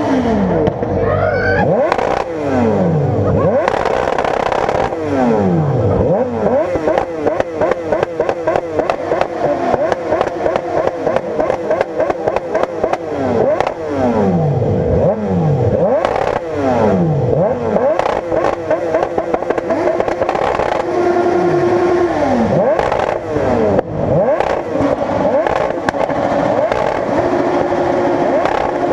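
Several motorcycle engines revved hard over and over, snapping up to high revs and falling back, with the title's bikes bouncing off the rev limiter. Many sharp pops run through the engine noise.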